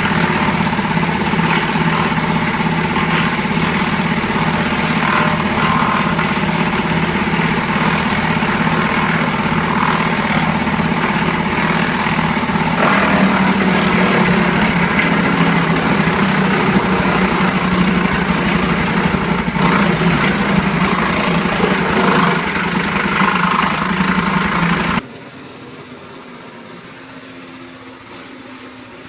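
Engine of a portable wood chipper running steadily under a loud, broad mechanical noise, its tone shifting about halfway through. The sound drops abruptly to a much quieter level about four seconds before the end.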